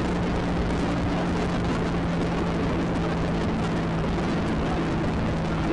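Can-Am Spyder three-wheeled motorcycle's engine running steadily at cruising speed, a low even hum under a rush of wind and road noise.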